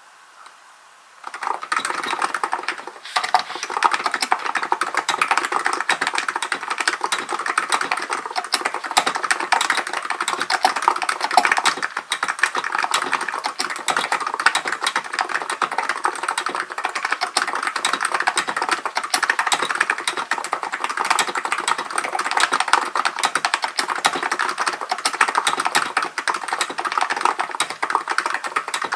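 Steady, fast typing on a Hansung GK898B electrostatic-capacitive (non-contact) keyboard, a dense run of rapid keystroke clacks. The typing starts about a second in after a moment of quiet.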